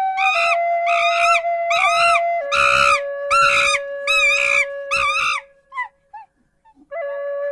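An animal crying out in a quick run of short, high calls that rise and fall, about two a second for some five seconds, over sustained flute music. The music breaks off for about a second near the end, then returns.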